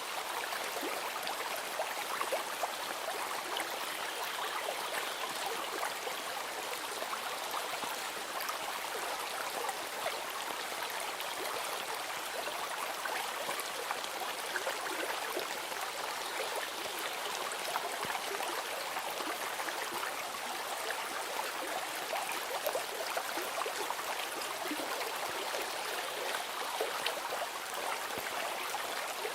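A stream of water flowing steadily, with fine splashing and trickling.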